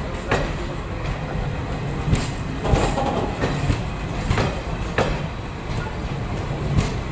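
Passenger train running on the rails, a steady low rumble broken by irregular clacks of the wheels over rail joints.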